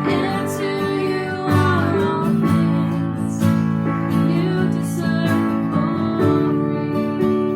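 Instrumental worship music: a strummed guitar playing sustained chords, with no singing.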